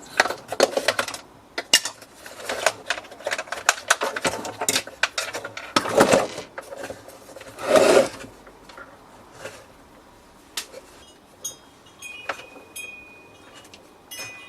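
Clicks, scrapes and clatter of coffee machine parts being handled and taken apart, busy for the first eight seconds, then only a few scattered clicks. A faint high ringing tone comes in near the end.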